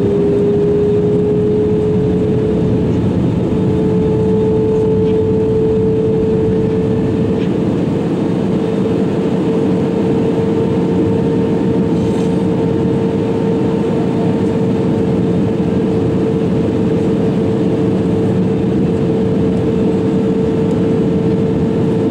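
Airbus A320-200 passenger cabin noise: a steady rush of engine and airflow with a loud engine whine whose pitch rises slightly over the first few seconds and then holds steady.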